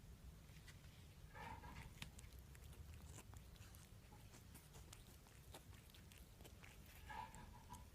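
Near silence: quiet room tone with scattered faint ticks and taps, and two faint brief sounds about a second and a half in and near the end.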